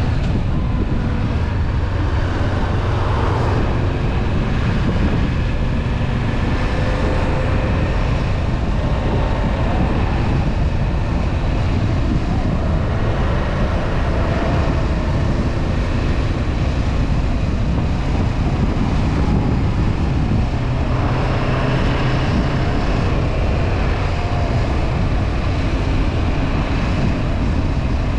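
Honda CB500F's parallel-twin engine running at steady riding speed, its note rising and falling a little, under a heavy rush of wind and road noise.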